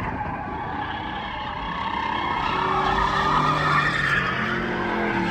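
A vehicle doing a burnout or donuts: tires squealing continuously against the pavement while the engine runs at high revs, its pitch rising and falling.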